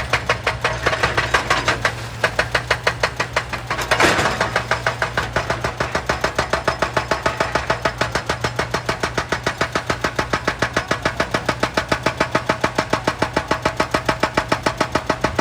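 Excavator's engine running with a rapid, even pulsing, several beats a second, over a steady low hum; a louder burst comes about four seconds in.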